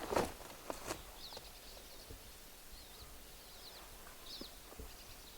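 Faint high chirps of a small bird, repeating in short squiggly notes, over a quiet outdoor background. A few soft rustles and snaps come in the first second.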